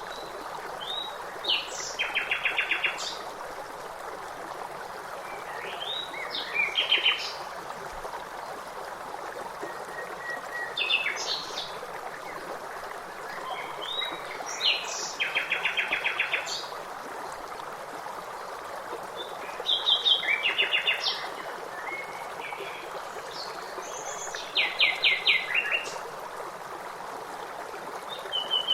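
A songbird repeating a short song phrase about every four seconds, each phrase a few rising notes that end in a fast trill, over a steady rush of flowing water.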